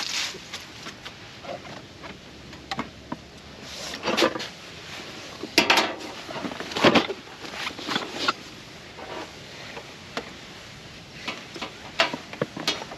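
Objects being handled: a string of irregular knocks, clicks and rustles, the loudest cluster a few seconds in.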